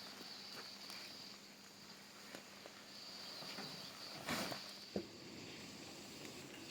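Faint outdoor ambience: a steady high-pitched tone that drops out and returns, scattered light clicks, and a short rustle a little past four seconds in followed by a sharp click.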